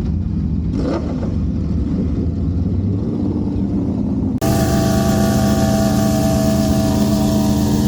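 Motor vehicle engines running: a low idling rumble, then after an abrupt cut about halfway in, a louder, steady engine drone held at constant speed.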